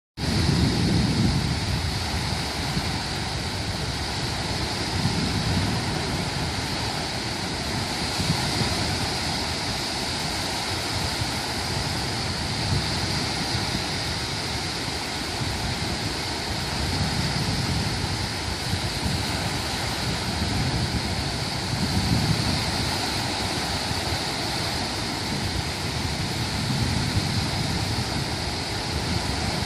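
Sea waves washing against the shore: a steady hiss of surf with a low rumbling swell every few seconds.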